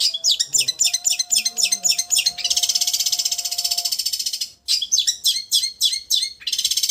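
Long-tailed shrike singing: a quick run of sharp high chirps, then a fast, even buzzing trill, a brief break about four and a half seconds in, more chirps, and the trill again near the end.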